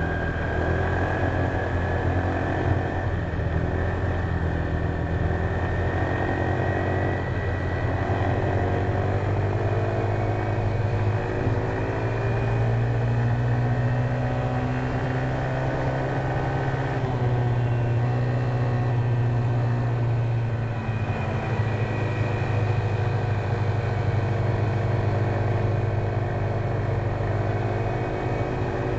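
Honda PCX150 scooter's single-cylinder engine running under way, its note drifting gently up and down with the throttle.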